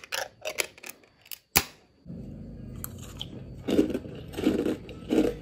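A few sharp clicks and snaps of a thin aluminium pull-ring lid being peeled off a can. Then three crunchy chews, about 0.7 s apart, as a mouthful of chocolate dessert with cookie pieces is eaten.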